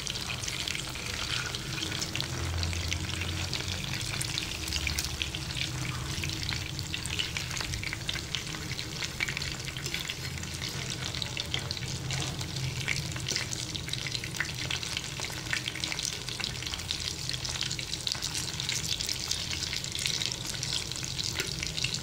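Beef mince patties shallow-frying in oil on a flat iron tawa, a steady sizzle full of fine crackles, with both sides browned and the patties nearly done.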